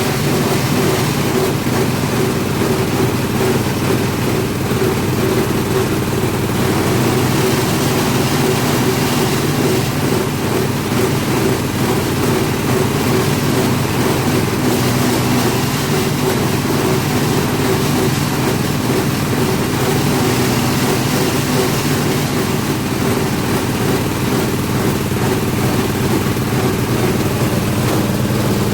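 Fabric shredding machine running steadily, a constant loud mechanical drone with a low hum.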